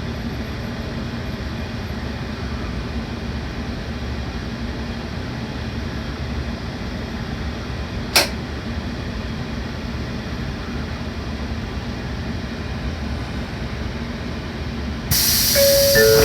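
Steady low hum of a Shinkansen train's equipment, with one sharp click about eight seconds in. Near the end a loud hiss starts suddenly, and a two-note chime sounds, high then low.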